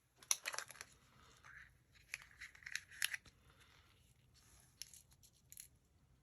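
Faint, scattered light clicks and brief rustles of sequins and small plastic craft pieces being picked up and dropped into a shaker card.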